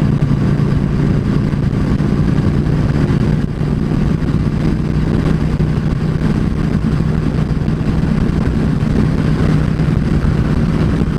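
Yamaha V Star 650's V-twin engine running steadily at highway cruising speed, with a constant rush of wind noise.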